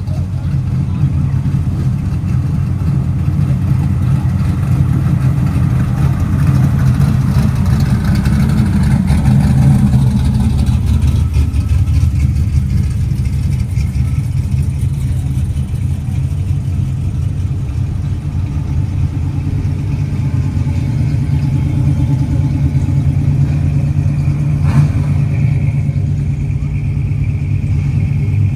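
Car engines rumbling at low speed, with one growing louder and rising in pitch around seven to ten seconds in, then easing off. A short sharp knock near the end.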